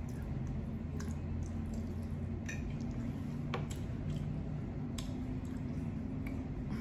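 Close-miked chewing and wet mouth sounds of someone eating noodles, with scattered small clicks, over a steady low hum.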